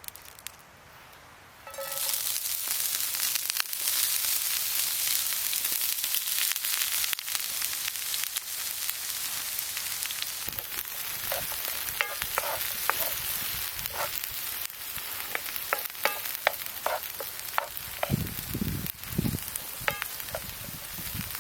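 Food sizzling in a hot frying pan, starting suddenly about two seconds in, with popping and spattering that grows more frequent in the second half and a few low knocks near the end.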